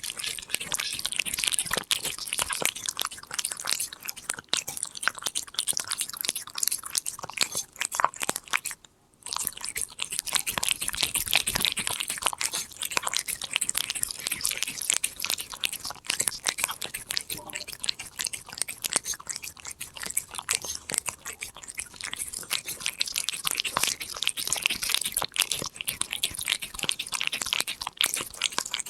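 Korean shorthair cat eating a snack close up: a dense, rapid run of crisp crunches and chewing, with a brief break about nine seconds in.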